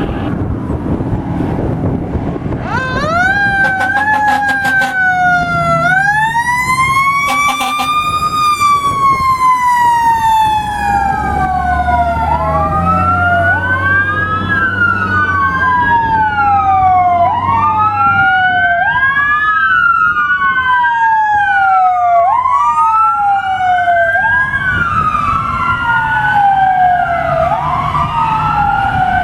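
Emergency vehicle siren on a responding fire apparatus, starting a few seconds in. It warbles quickly at first, then settles into a cycle of rising and falling sweeps about every two seconds, with a second siren tone overlapping it, over the low rumble of a truck engine.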